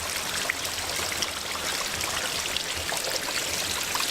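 Waterfall heard from behind its curtain of falling water: a steady rush with splashing and trickling.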